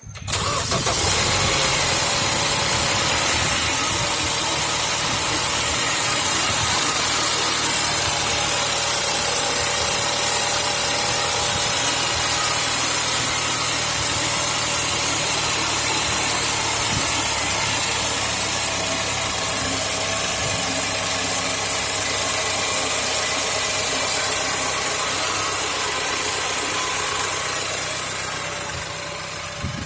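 BMW N20 2.0-litre turbocharged four-cylinder petrol engine starting from cold and catching right away, then idling steadily.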